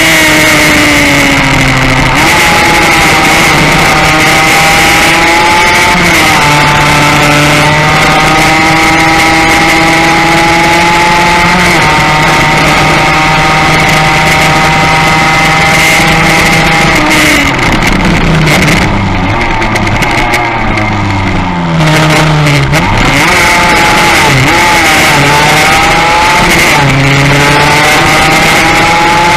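Yamaha racing motorcycle engine under full throttle. Its pitch climbs and drops back at each upshift. About two-thirds through it shuts off, and the revs fall with a few short blips on the downshifts, then it pulls hard up through the gears again. There is steady wind rush on the microphone.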